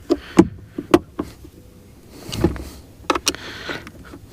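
Irregular sharp clicks and light knocks, about eight to ten of them, from the parts of an outboard remote control box being handled and fitted by hand.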